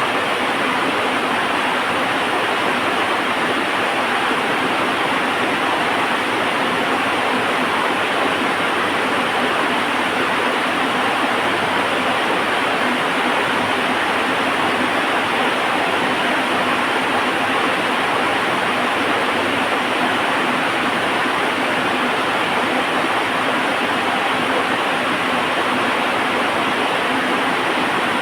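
Heavy rain falling in a steady, even hiss that never lets up.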